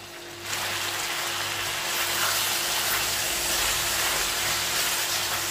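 Chicken livers and masala sauce frying on a high flame, a steady hiss of sizzling that starts abruptly about half a second in as the pan is stirred.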